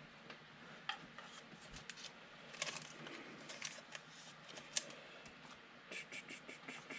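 Faint rustles and scattered light clicks of trading cards being handled and slid against one another, with a small flurry of handling sounds near the end.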